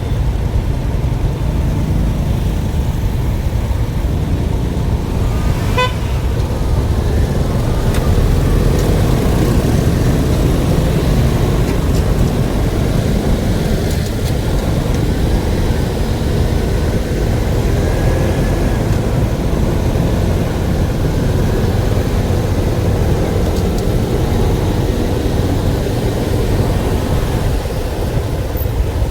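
Steady vehicle engine and road noise, with a short horn toot about six seconds in.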